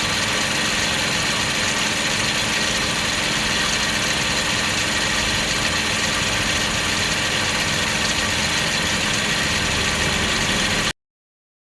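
Car engine idling steadily with its newly replaced water pump running normally, free of the noise a loose pump makes. The sound cuts off abruptly near the end.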